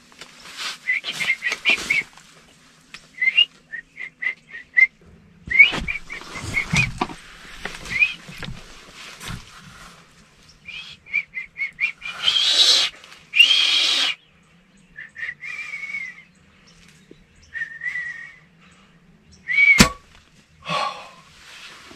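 Small birds chirping in quick runs of short notes, again and again. A loud rustle comes about halfway through, and a single sharp click near the end.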